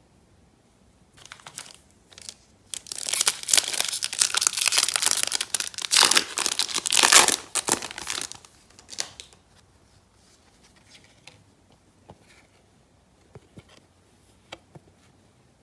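A trading card pack wrapper being torn open and crinkled, loudest for a few seconds in the middle, followed by a few faint ticks of the cards being handled.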